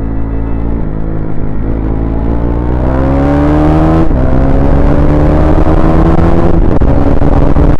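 KTM Duke 390's single-cylinder engine accelerating, its exhaust open with the dB killer removed. The revs climb, drop sharply at a gear change about four seconds in, then climb again more slowly and level off near the end.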